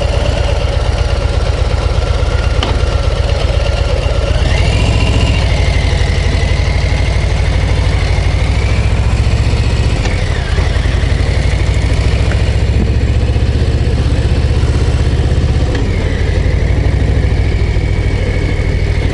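Harley-Davidson Low Rider ST's Milwaukee-Eight 117 V-twin running loudly while riding, the engine note changing about five, ten and sixteen seconds in.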